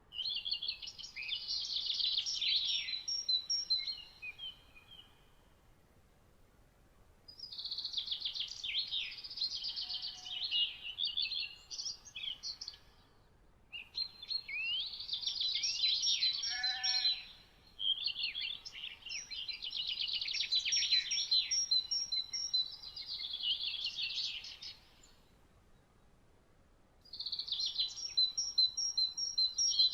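Songbird singing: rapid, high, warbling song phrases a few seconds long, with repeated notes, five phrases in all separated by short pauses.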